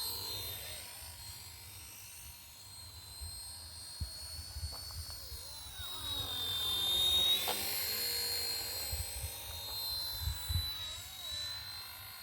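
Small RC helicopter's motor and rotor whine, loudest near the middle as it passes close, where the pitch dips and then rises again. Wind buffets the microphone with an uneven low rumble.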